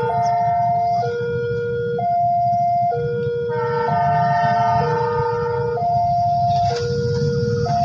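Two-tone warning siren alternating between a high and a low note about once a second, with a second similar alarm overlapping part of the way through, over a steady low rumble.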